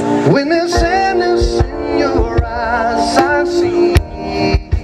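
Live band playing a soul-pop song, a male lead voice singing with strong vibrato over held keyboard chords, with several sharp percussive hits.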